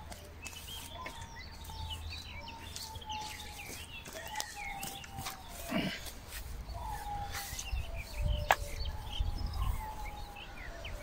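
Small birds chirping in many short calls, with wind rumbling on the microphone and a sharp click about eight and a half seconds in.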